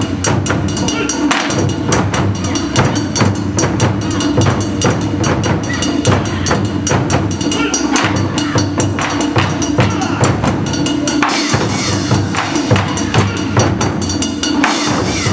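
Taiko drum ensemble playing a fast, dense, unbroken run of sharp drum strokes.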